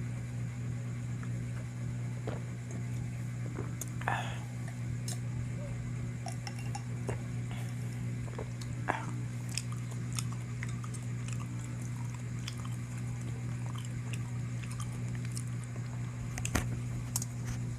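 A person chewing and eating chicken, with scattered light clicks of utensils and tableware, over a steady low hum.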